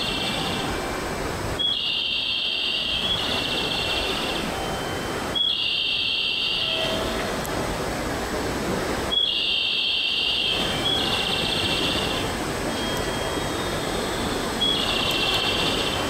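Steady rumble of a distant Echigo Tokimeki Railway diesel railcar approaching slowly over the station tracks. Over it, a bird gives a high buzzy call of about a second, repeated every few seconds and twice in quick succession now and then.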